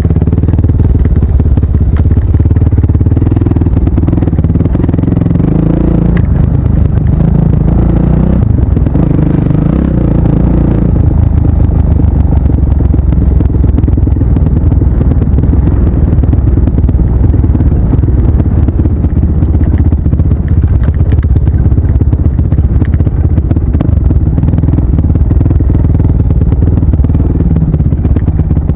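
Off-road trail motorcycle engines running, a loud, steady rumble.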